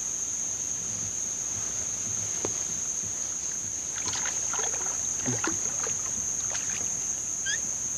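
A steady high-pitched insect drone of crickets, with faint scattered splashes and knocks around the kayak about halfway through while a hooked bass is being played.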